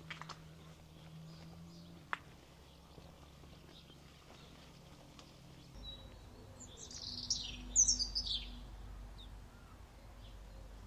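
A songbird sings a short burst of rapid, high chattering notes a little past halfway through, over faint steady outdoor background. A single sharp tick sounds about two seconds in.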